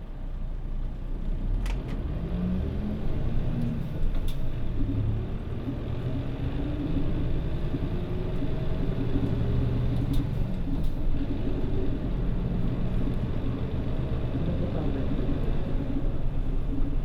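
Mitsubishi Fuso Aero Star city bus's diesel engine pulling away from a stop and accelerating, its note rising in pitch several times as it gets louder, with a few sharp clicks or rattles.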